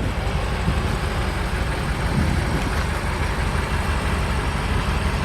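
A car engine idling steadily, a low even rumble with no revving.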